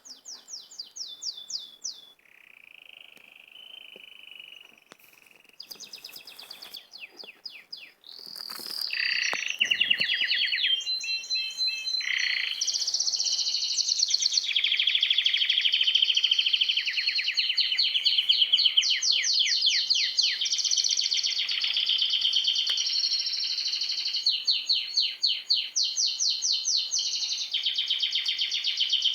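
Small songbirds chirping and trilling in rapid runs of notes. The calls are sparse at first, then build into a dense, continuous chorus from about nine seconds in.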